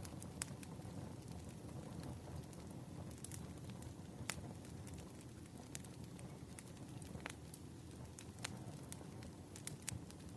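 Wood fire crackling: irregular sharp pops and snaps a second or a few seconds apart, over a low steady rumble of burning logs.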